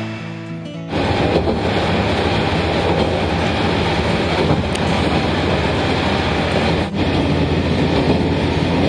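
Interior ride sound of a Watarase Keikoku Railway diesel railcar under way: a steady low engine drone mixed with wheels rolling on the rails. It starts abruptly about a second in, after a moment of background music.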